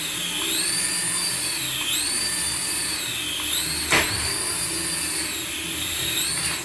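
Electronic sound effect from a battery-powered toy: a high whine that rises and falls in pitch in a repeating cycle about every one and a half seconds, with one sharp click about four seconds in.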